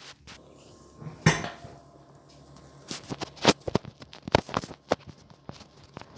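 Irregular sharp clicks and clinks of hard objects knocking together: one loud click about a second in, then a quick run of them a couple of seconds later.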